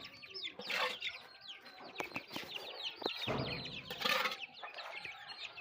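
A flock of domestic chicks peeping rapidly in many short, high, falling calls, with chickens clucking, as they are fed worms. Two brief rustling bursts, about a second in and about four seconds in.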